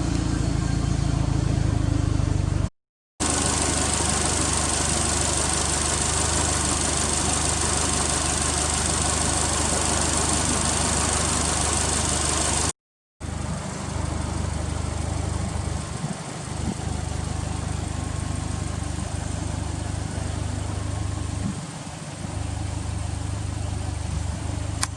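Subaru Impreza WRX STI (GRB) turbocharged flat-four idling steadily through an HKS aftermarket exhaust, in three takes separated by two brief cuts. The middle take carries a strong steady hiss over the engine note.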